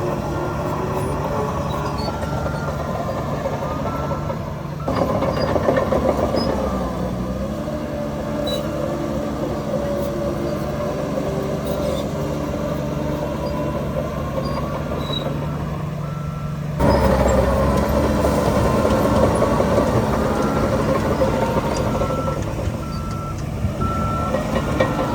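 Diesel engines of heavy earthmoving machinery running steadily, with a reversing alarm beeping in short, evenly spaced beeps early on and again near the end. The engine sound changes abruptly twice, about five seconds in and again near seventeen seconds.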